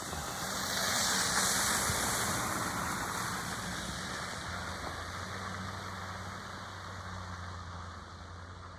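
A car going by on an icy, wet road: tyre hiss swells about a second in and slowly fades, over a steady low engine hum.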